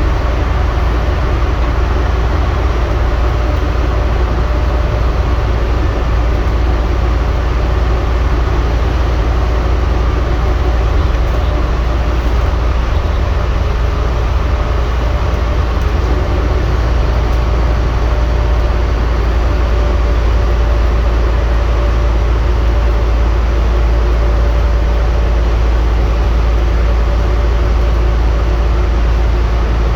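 Scania N230UD double-decker bus running steadily, a constant low engine rumble with road noise and no marked revving or stops.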